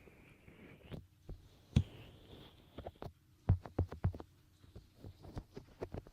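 Fingertips rubbing and pressing at a binaural microphone's ear in finger ear-cleaning ASMR: irregular soft thumps and rustling, busiest in the second half.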